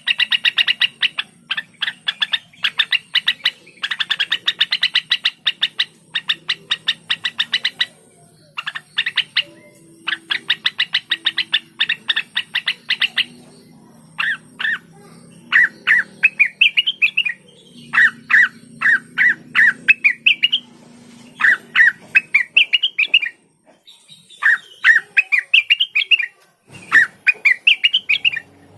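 Cucak wilis (rengganis), a leafbird, singing. It opens with a fast, sharp chattering series of notes, then from about halfway switches to bursts of quick rising whistled notes.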